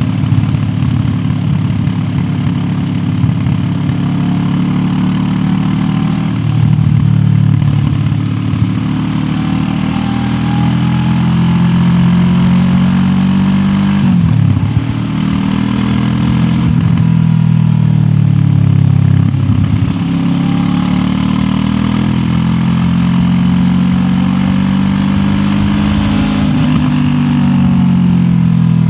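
QJ Motor SRT 700X parallel-twin motorcycle engine running under way, its revs climbing and falling several times with brief sharp dips between pulls.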